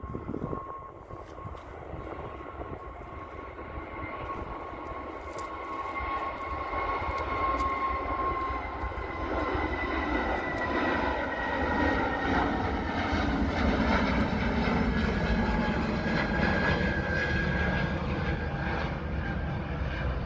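Airliner's engines passing, a steady roar with a whine that slowly falls in pitch as it goes by. The sound grows louder to a peak about two-thirds of the way through.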